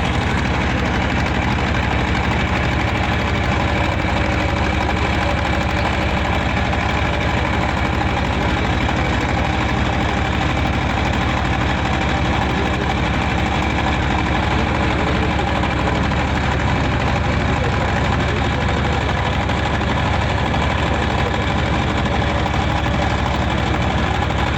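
Engine running steadily at an even speed, with no change in pitch or loudness.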